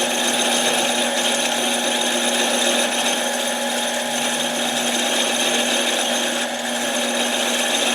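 Harbor Freight mini lathe running steadily with a constant motor whine, machining the scored end plate of an air impact wrench flat.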